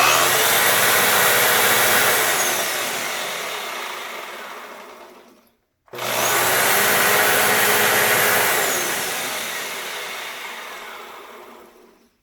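Hoover Sprint QuickVac upright vacuum cleaner started twice: each time the motor and brush bar come up to speed at once, run steadily for about two seconds, then wind down with falling pitch to a stop. The run is loud and a little noisy.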